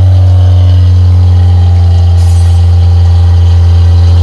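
2000 Maruti Esteem's carburetted four-cylinder petrol engine idling loudly and steadily, with an even low hum and no revving. The engine has just been started, evidently for the first time since its cylinder head was rebuilt.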